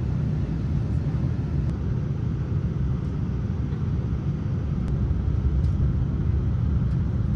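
Steady low rumble of aircraft noise inside the cabin of a Boeing 787-9 Dreamliner airliner.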